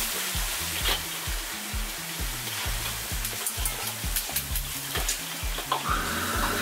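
Food sizzling as it fries in hot oil in a wok, with a metal ladle scraping and clinking against the wok. Background music with a regular bass beat plays underneath, and a steady whirring starts just before the end.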